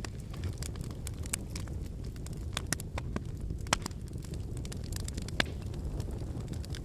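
Wood fire burning with a steady low rumble of flames and frequent crackling of burning firewood, with a few louder pops.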